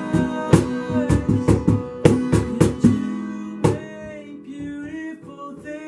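Live worship band music: acoustic guitar strumming over a held chord with sharp rhythmic hits, thinning out and getting quieter after about four seconds.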